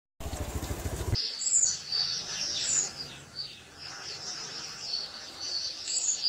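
Birds chirping repeatedly in short high-pitched calls, after about a second of low rumbling noise at the start.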